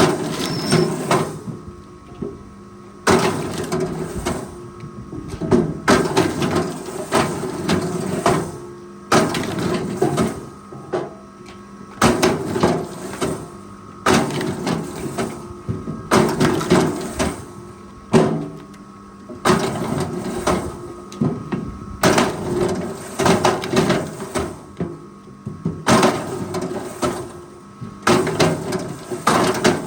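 Forestry machine working timber: a steady running drone, broken every three seconds or so by a sudden burst of wood cracking and crunching.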